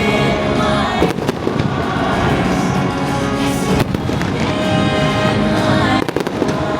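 Fireworks bursting, with sharp bangs about a second in, near four seconds and near six seconds, over the nighttime show's loud music soundtrack playing from loudspeakers.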